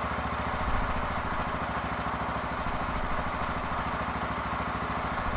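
Bajaj Pulsar N160's single-cylinder engine idling steadily on its first cold start of the day, holding its idle without stalling now that a new throttle position sensor is fitted.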